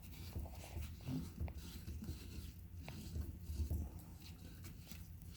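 Faint handling noise from the espresso maker's parts being worked on by hand: soft low bumps and a few light clicks.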